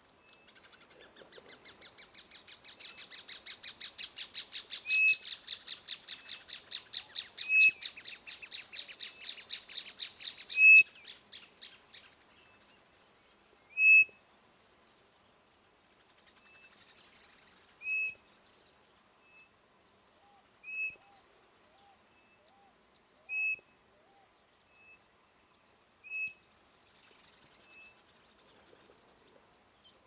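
Bird calling: a long, fast series of notes that grows louder for about ten seconds and then breaks off, followed by single short, high whistled notes every few seconds, with a few softer, lower notes in between near the end.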